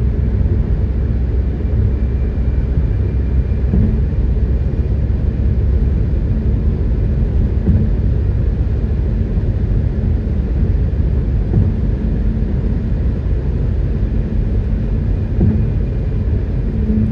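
Steady low rumble of a vehicle driving at road speed, heard from inside the cab: engine and tyre noise on the road.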